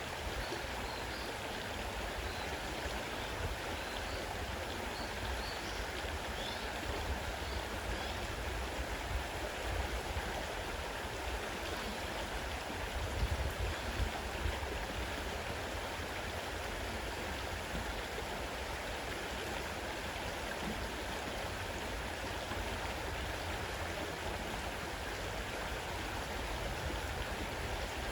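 Fast-running river rushing steadily over its bed, with a few faint high bird chirps over it in the first several seconds.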